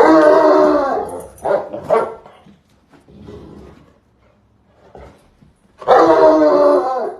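Dog vocalizing in two long, drawn-out calls, one at the start and one near the end, with a few shorter, quieter sounds between.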